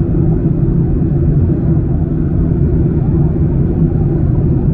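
Steady, loud cabin rumble of a Boeing 737-900ER airliner: the noise of its jet engines and the airflow heard from inside the passenger cabin.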